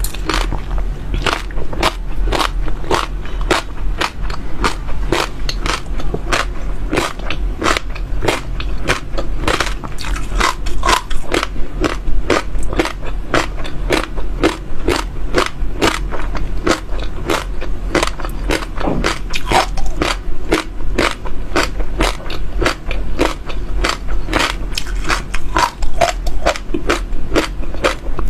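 Close-miked chewing of crunchy seeds, crisp cracks about three times a second as they are bitten and crushed between the teeth.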